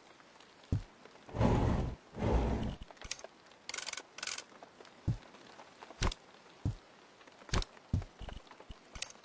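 Hands-on work noises: scattered knocks and taps, with two longer scraping strokes about one and a half to three seconds in.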